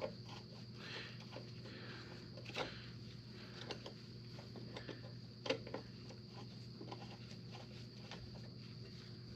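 Faint scattered clicks and knocks of objects being handled, with a few sharper taps about two and a half seconds in and near the middle, over a steady low hum.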